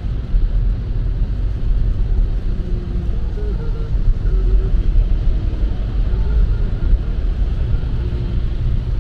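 Steady low rumble of road and tyre noise inside a car's cabin at highway speed on a rain-soaked road.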